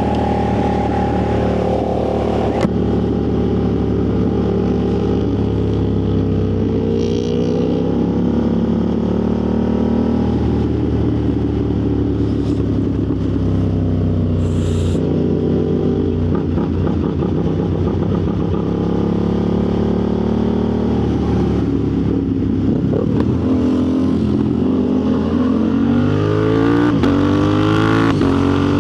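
Motorcycle engine running while ridden, its revs rising and falling several times as the bike speeds up and slows. A single sharp click comes about two and a half seconds in.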